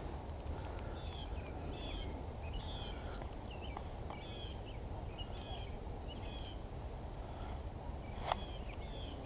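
A bird calling over and over, one short high chirping phrase about every 0.7 seconds, over a steady low outdoor background noise. A single sharp click comes near the end.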